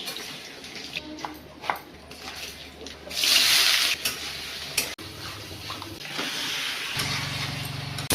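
Kitchen work sounds: scattered clinks and knocks of utensils and dishes, with a loud burst of running tap water about three seconds in. A low hum starts near the end.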